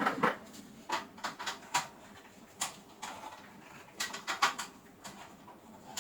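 A string of irregular light clicks and knocks, from hard objects being handled and set down.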